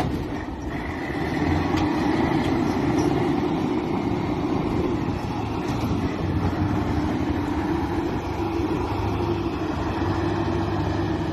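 Tractor engine running steadily, a low drone that holds at an even level throughout.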